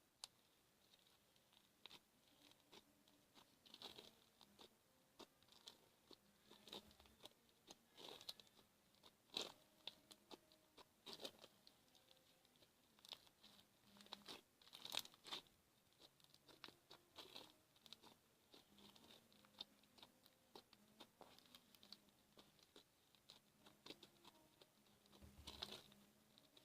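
Fingers poking and squishing slime: faint, irregular small clicks and pops, a few every second.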